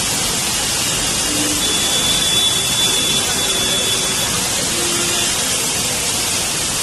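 Steady loud rushing noise of heavy rain and flowing floodwater, with a faint high tone for a couple of seconds near the middle.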